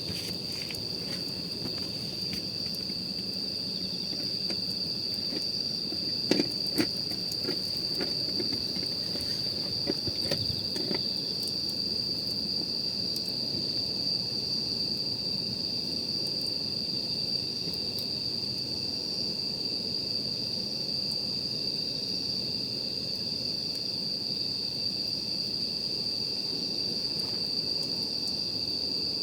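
Wood campfire burning with a low hiss and scattered crackles and pops, the sharpest a pair about six seconds in. Behind it, night insects keep up a steady, high-pitched trill.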